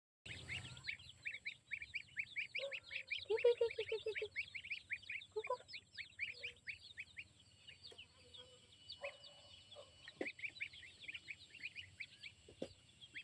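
A flock of young poultry peeping constantly in rapid short chirps, with a few lower calls from adult fowl among them.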